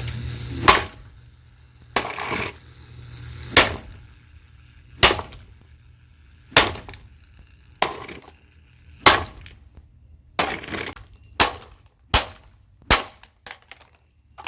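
Mainstays box fan being smashed: a series of sharp, heavy blows with cracking and breaking, about one every second and a half, coming quicker near the end.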